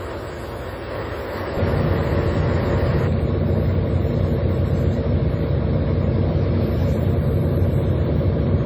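Fishing boat's engine running steadily, a low hum with engine noise that gets louder about one and a half seconds in.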